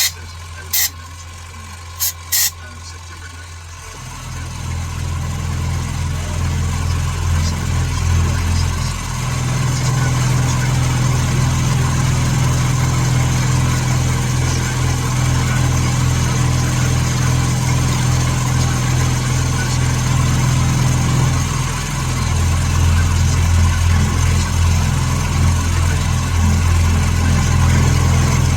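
A few sharp clicks, then about four seconds in a shop machine starts and runs with a steady low hum that builds and holds.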